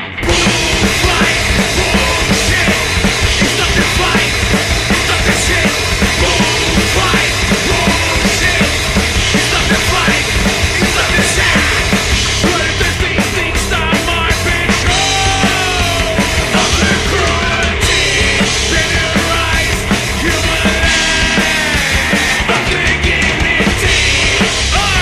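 Heavy rock band playing at full volume: drum kit, bass and distorted guitars. A louder full-band section kicks in right at the start, with gliding lead lines around the middle.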